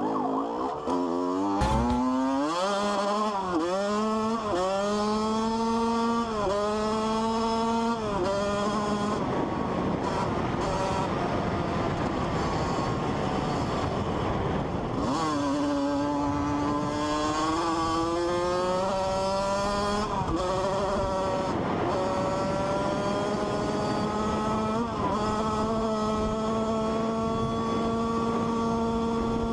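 A motor vehicle engine accelerating hard through the gears, its pitch climbing and dropping back at each shift several times, then holding a steady pitch near the end.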